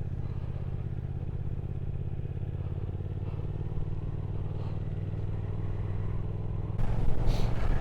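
Motorcycle engine idling steadily. About seven seconds in, a louder rushing wind noise suddenly comes in over it.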